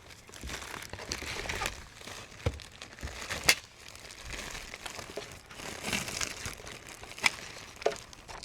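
Packaging crinkling and rustling as e-bike parts are unwrapped and handled, with a few sharp clicks or knocks, the loudest about three and a half seconds in and another near seven seconds.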